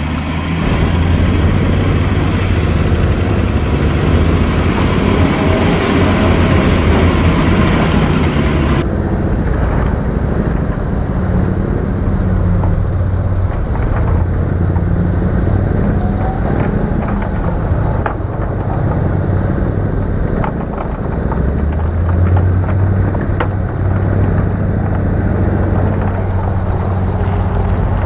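Heavy diesel construction machinery running steadily under load, with a deep engine hum and scattered knocks and clanks. About nine seconds in the high hiss drops away abruptly while the engine sound carries on.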